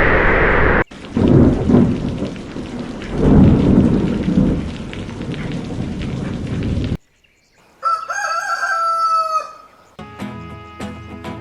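Rain falling with two rolls of thunder, cut off suddenly, then a rooster crowing once, followed by music with a steady beat.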